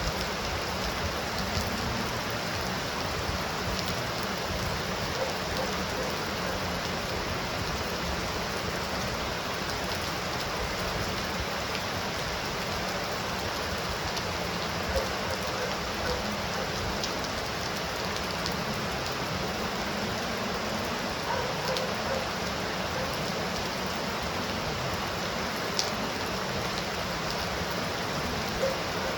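Steady heavy rain: an even, unbroken hiss, with a few sharper drop ticks here and there.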